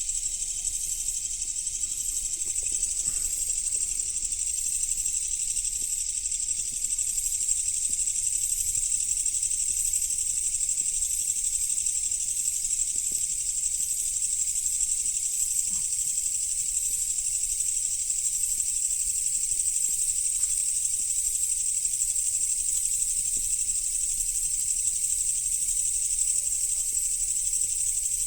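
Steady high-pitched chorus of insects, with a few faint crackles from a wood bonfire.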